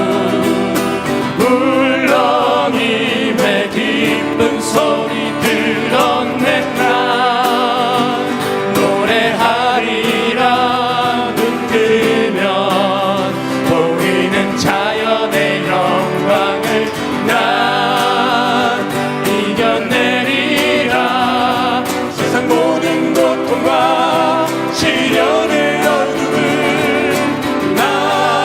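Male vocal group singing a Korean Catholic song in harmony, with vibrato, over instrumental accompaniment.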